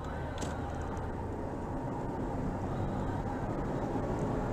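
Steady engine and road noise of a moving car, with a low hum.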